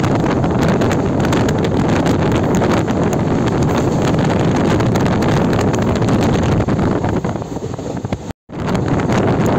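Wind rushing over the microphone and the running noise of a moving passenger train, steady and loud. Shortly before the end the noise thins, cuts out completely for a moment, then returns at full level.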